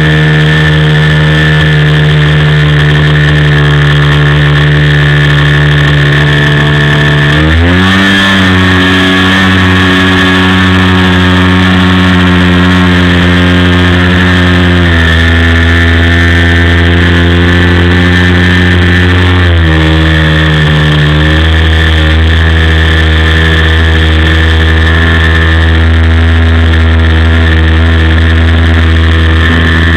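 OS FS-56 four-stroke glow engine of a Great Planes Cherokee RC plane running loud and steady. Its pitch steps up about seven seconds in and shifts down again around fifteen and twenty seconds.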